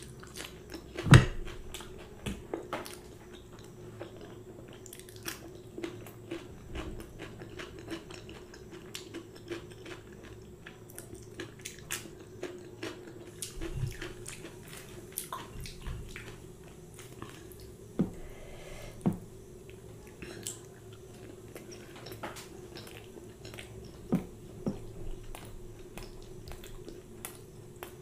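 Close-miked chewing and biting of puri, paratha and green chili, with many small wet mouth clicks and a few louder bites, the loudest about a second in. A faint steady hum runs underneath.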